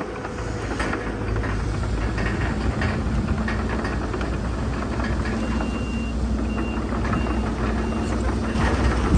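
Heavy diesel earthmoving machinery, a bulldozer and dump trucks, running with a steady low rumble and scattered clanks. A reversing alarm beeps about four times from a little past halfway.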